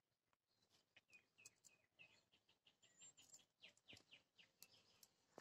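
Near silence with a bird chirping faintly in quick, short repeated notes, about three or four a second, and a few soft clicks.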